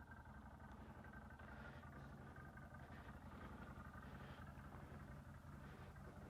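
CFMoto CForce 800 ATV's V-twin engine running steadily, heard faintly.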